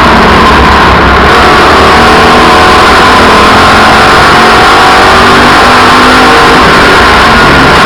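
Race car engines running hard at speed, loud and steady, with several engine pitches rising and falling against one another.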